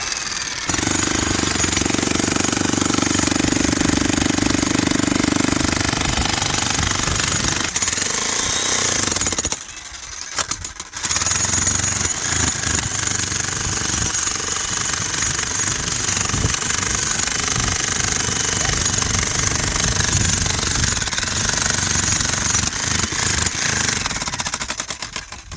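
Loud, continuous noise of a small motor-driven machine or power tool running. It drops away for about a second near ten seconds in, then starts again.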